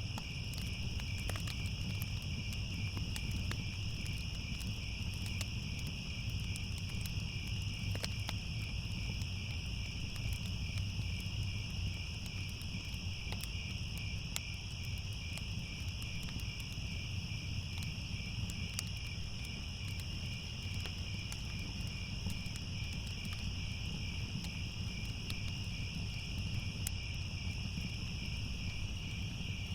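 Crickets chirping in a steady, dense chorus over a constant low rumble, with scattered sharp crackles of a wood fire.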